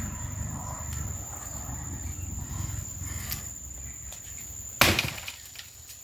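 A single axe blow biting into wood near the end, the loudest sound. An insect's steady high-pitched buzz runs underneath.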